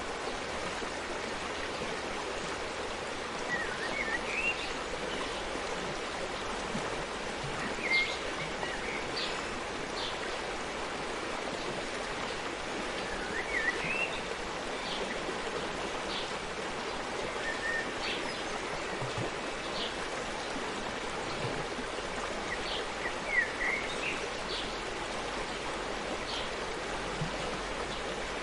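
Forest stream flowing with a steady rush of water, with short bird chirps every few seconds.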